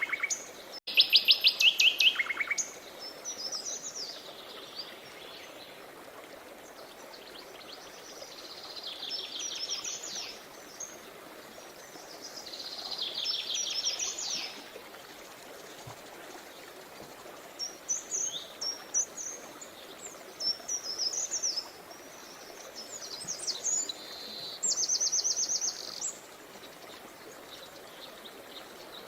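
Songbirds singing: fast trilled phrases every few seconds with scattered chirps in between, over the steady rush of flowing river water.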